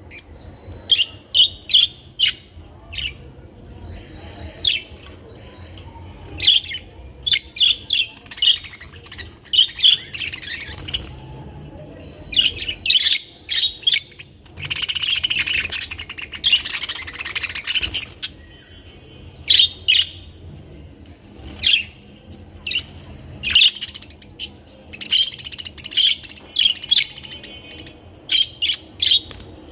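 Budgerigars chirping and chattering in many quick, short calls, with a longer continuous stretch of chatter about halfway through.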